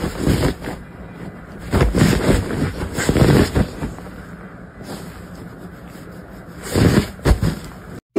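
Bedding rustling as a golden retriever puppy paws at a duvet and pushes its nose into it, in uneven bouts, loudest about two and three seconds in and again near the end.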